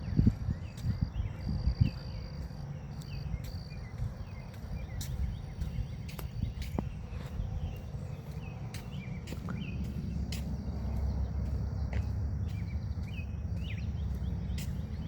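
Forest ambience: a grass insect trilling in stretches with a steady high buzz, small bird chirps, and footsteps thudding on the path. A low rumble of wind on the microphone builds toward the end.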